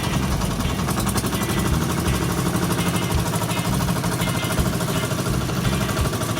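Boat engine running steadily under way, with a fast, even chugging beat.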